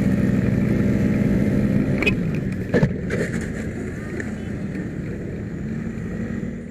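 Vehicle engine running with a steady drone for about two seconds, then falling away into rougher road noise. Two sharp clicks come about two and three seconds in.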